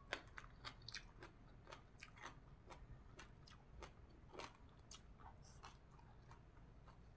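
A person chewing mouthfuls of spicy green papaya salad and sticky rice: faint, irregular short clicks of mouth noise, a few a second.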